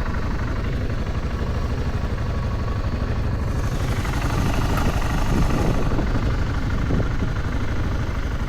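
Motorcycle at road speed: wind buffeting the microphone over steady engine and road rumble, with the wind growing a little stronger about halfway through.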